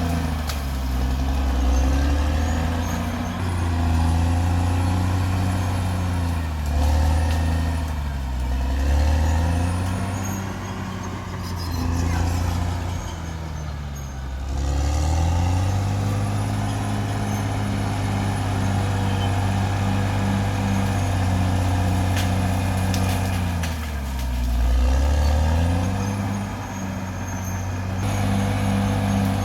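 Caterpillar D6R XL bulldozer's diesel engine working under load, its revs dropping and climbing back several times.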